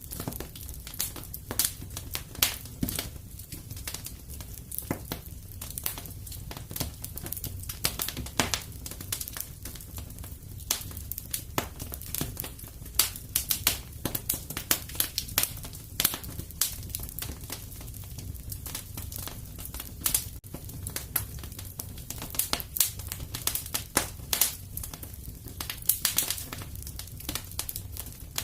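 Wood fire in a fireplace crackling and popping, with irregular sharp snaps several times a second over a steady low rumble of the flames.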